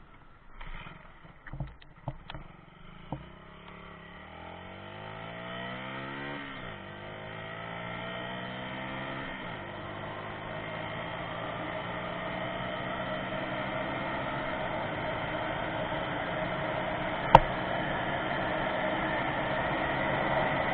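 Honda CB 50 J's small single-cylinder four-stroke engine accelerating hard through the gears with its rev limiter removed. After a few knocks at first, the engine note rises, drops at two upshifts about 7 and 9½ seconds in, then climbs steadily to high revs. There is a single sharp click about three-quarters of the way through.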